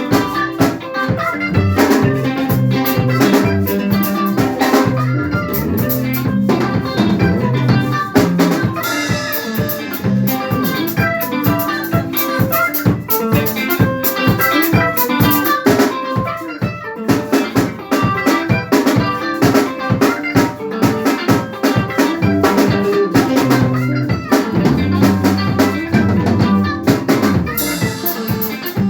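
Band music played live, with a drum kit keeping a steady, driving beat under guitar lines.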